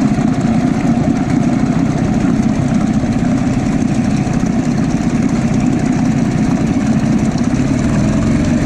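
Suzuki 2 horsepower outboard motor running steadily, just started and throttled up a little.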